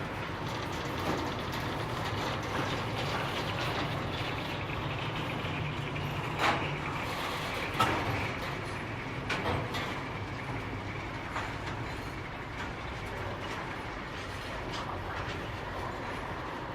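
Freight train wagons rolling past, the wheels clattering steadily over the rails with a few sharper knocks, the loudest about six and a half and eight seconds in.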